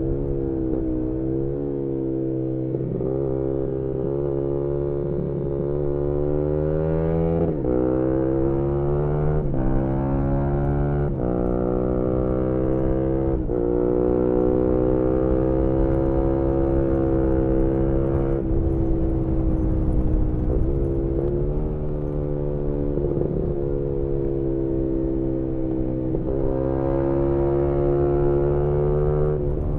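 Single-cylinder engine of a 2018 Yamaha MT-125 with a GPR aftermarket exhaust, heard onboard while riding. It revs up and drops in pitch at each of several quick upshifts, holds a steady pitch for a few seconds, then falls off and builds again, with wind noise underneath.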